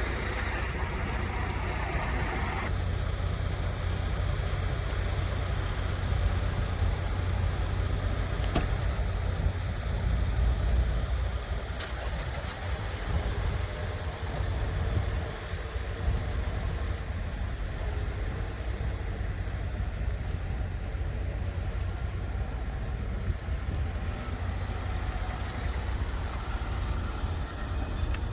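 A motor vehicle running steadily, with a continuous low rumble and a couple of faint clicks.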